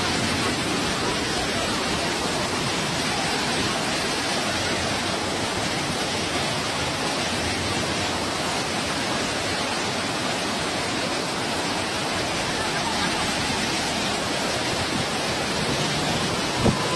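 Very heavy rain pouring down in a dense, steady hiss. A brief knock sounds near the end.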